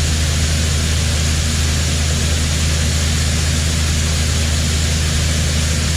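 Heavy farm-machinery engine running steadily, with a strong low hum and a broad, even hiss over it.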